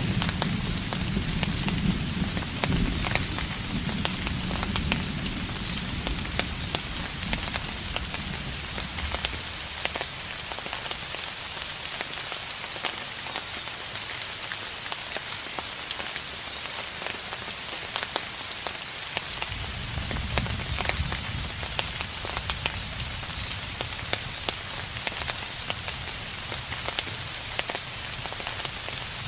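Steady rain falling on a surface, with many individual drops ticking. Low rumbles of distant thunder: one dies away over the first several seconds, and another begins about two-thirds of the way through.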